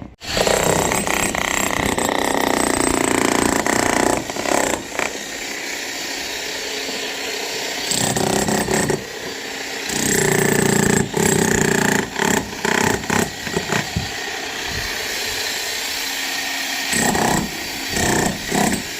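Power tool running hard with several short stops and changes in load.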